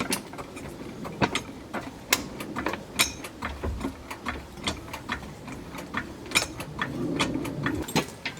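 Irregular metallic clicks and clunks of an engine hoist and its chain as a small-block Chevy engine is raised and shifted into place.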